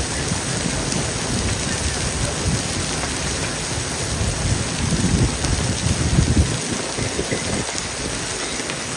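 Heavy rain pouring steadily. A low rumble swells from about four and a half seconds in and stops about two seconds later.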